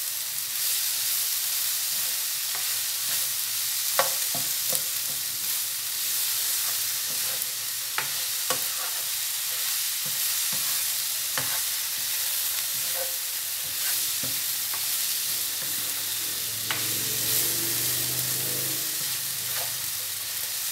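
Sliced okra and onions sizzling in oil in a non-stick frying pan as they are stirred with a spatula, the spatula scraping and tapping the pan at irregular moments.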